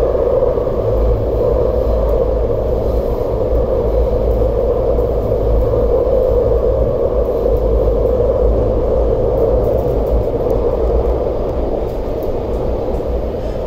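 Steady running noise heard inside the passenger car of an MTR SP1900 (IKK) electric train travelling through a tunnel: a rumble from the wheels and rails under a strong, even roar, easing slightly near the end.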